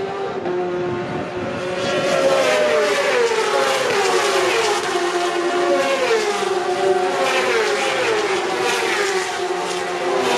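Racing motorcycles passing at high speed one after another on a closed road circuit. The engines run loud and continuously, and each engine note drops in pitch as the bike goes by.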